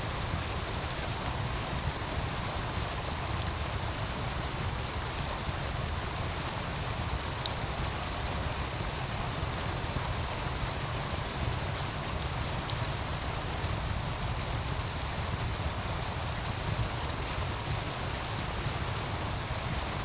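Steady rushing of a meltwater stream, with a wood fire crackling in scattered small pops over it; one sharper pop about seven and a half seconds in.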